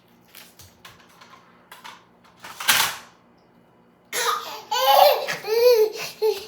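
A toddler laughing and squealing in a run of short, high, arching cries in the second half, after a few light taps and one sharp noisy burst.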